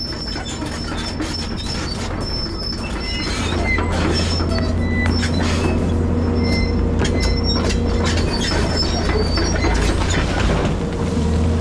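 Bulldozer working: a steady deep engine drone with high metallic squeals and many clanks and clicks, typical of steel crawler tracks.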